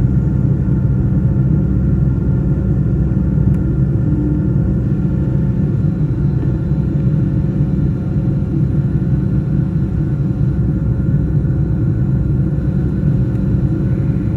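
Boeing 757-200 engine and airflow noise heard inside the cabin during the climb after takeoff: a steady, loud low rumble with a faint steady engine whine.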